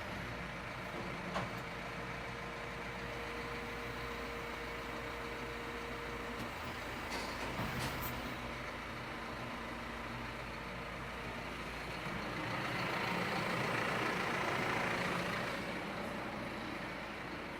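Tractor engine running steadily while the baler is operated, swelling louder for a few seconds near the end.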